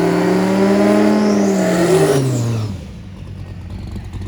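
Drag race car's engine running loud, its note rising slightly and then dropping in pitch as it goes by, fading out about three seconds in.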